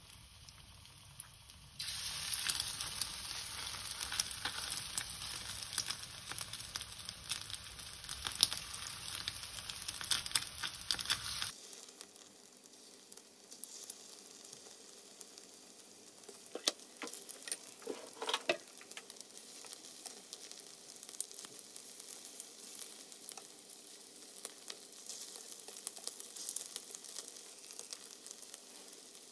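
Marinated chicken breast pieces shallow-frying in hot oil in a frying pan: a faint sizzle that becomes a steady, crackling sizzle with small pops about two seconds in.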